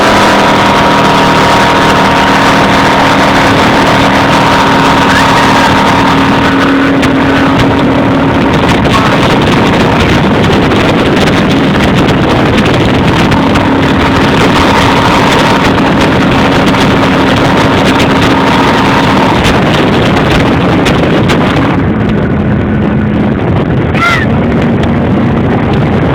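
Jet boat's big-block engine running steadily under way, with rushing water and wind noise over the engine note; near the end the note settles a little lower.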